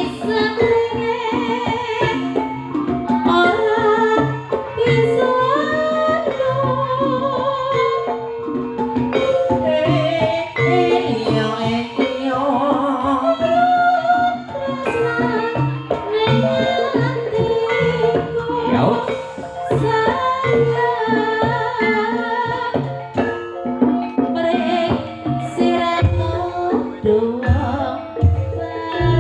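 Live dangdut-style ebeg music played through a PA sound system: singing with a wavering melody over hand drums and other instruments.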